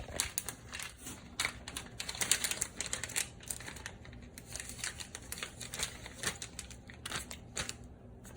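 Quick, irregular light clicks and taps of small parts being handled: an oven temperature sensor and its wire connector being worked by hand. The clicks thin out near the end.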